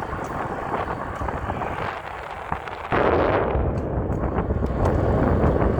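Wind buffeting the microphone of a moving e-bike rider, a rough rumbling noise that turns abruptly louder and heavier about three seconds in.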